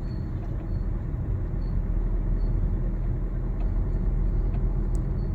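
Steady low rumble of engine and road noise inside the cabin of a Maruti Suzuki S-Cross with a 1.3-litre diesel engine, heard while the car is being driven.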